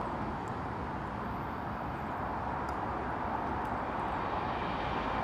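Approaching train: a steady rushing rumble that grows a little louder and brighter near the end.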